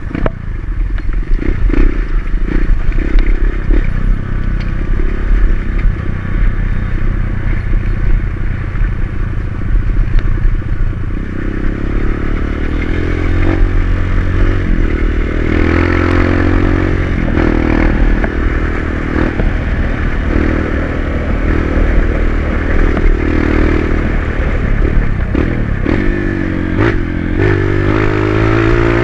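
Dirt bike engine running under way, its revs rising and falling from about halfway through, with clattering and scraping over rough ground.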